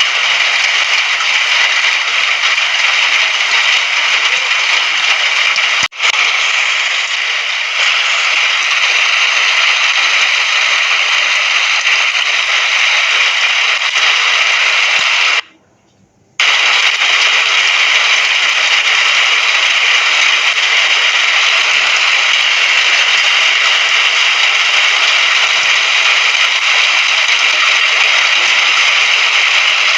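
Steady rain sound effect, an even hiss of rainfall. It dips sharply for an instant about six seconds in and cuts out to near silence for about a second around the middle before resuming, like a splice in a looped recording.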